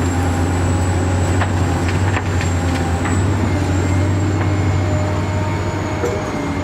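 Steady low engine-like rumble with a thin, high steady whine over it and a few light clicks.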